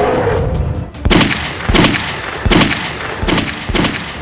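A series of sharp, gunshot-like bangs in quick succession, roughly one every three-quarters of a second, starting about a second in after a burst of rumbling noise.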